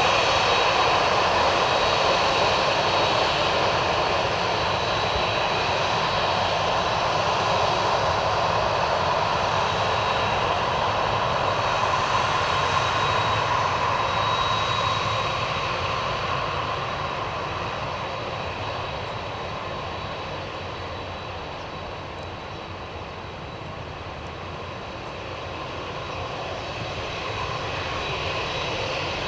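Boeing 767's jet engines running, a steady whine over a rushing roar. The sound eases off somewhat about two-thirds of the way through, then swells again near the end.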